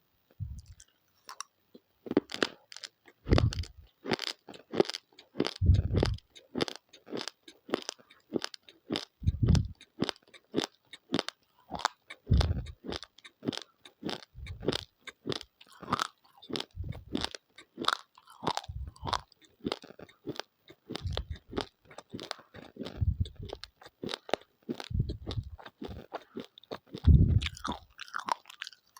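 Close-up chewing of raw, uncooked rice grains: rapid, sharp crunching several times a second, with heavier low thuds every second or two as the jaw bites down.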